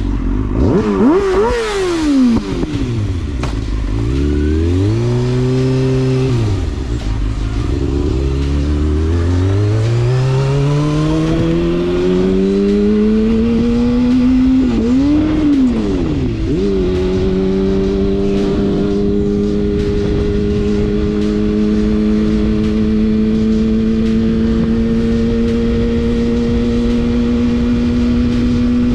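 Motorcycle engine revving and dropping a couple of times, then pulling away and climbing steadily in pitch as it accelerates. A gear change comes about fifteen seconds in, after which it settles into a steady cruise with the pitch slowly creeping up.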